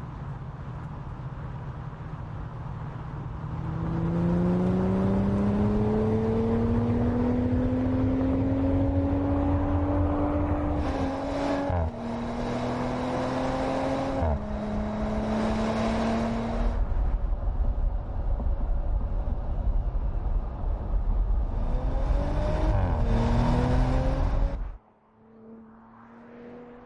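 Audi RS 5 Coupé's twin-turbo V6 accelerating through the gears: the engine note climbs, drops sharply at two quick upshifts, then holds steady. It climbs again briefly before cutting off abruptly near the end.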